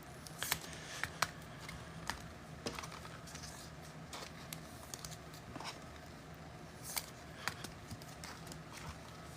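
Trading cards being handled and flicked through one by one: irregular soft clicks and light rustles, over a faint steady hum.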